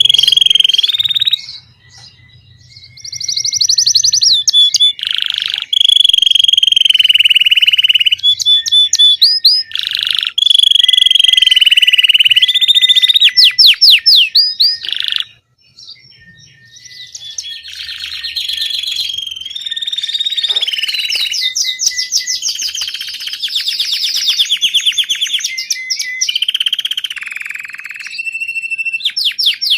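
Domestic Belgian canary singing its 'campainha' (bell) song: long held whistled notes alternating with fast rolling trills. There are two brief pauses, one near the start and one about halfway through.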